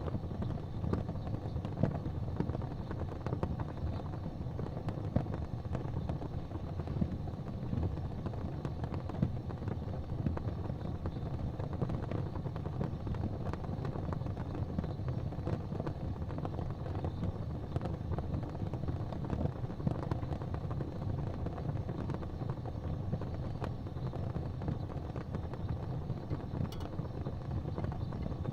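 Fire crackling in a fireplace: scattered small pops and snaps over a steady low rumble.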